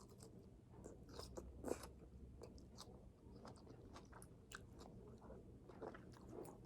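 A person chewing crunchy vegetables, a faint run of small irregular crunches with one louder crunch about two seconds in.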